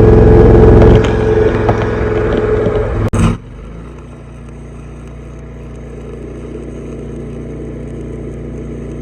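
Stick-welding arc crackling loudly over a steady machine hum, cutting off suddenly about three seconds in and leaving only the quieter steady hum.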